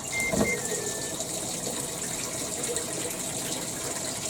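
Hitachi BeatWash BW-V80C top-loading washing machine giving a few short control-panel beeps, the last ones stepping down in pitch, then water rushing steadily into the tub as it fills for a rinse.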